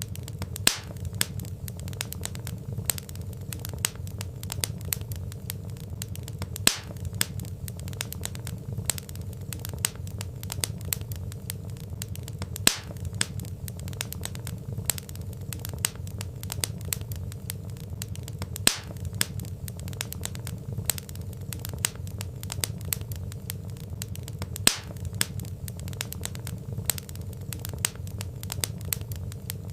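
Wood fire crackling: a dense run of small clicks over a low steady rumble, with a louder sharp pop about every six seconds.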